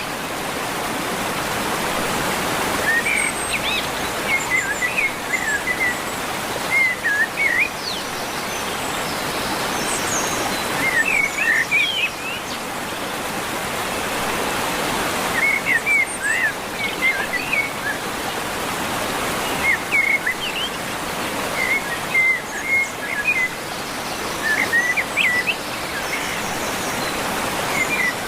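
Forest birds chirping in quick clusters of short, high calls every few seconds over a steady background hiss.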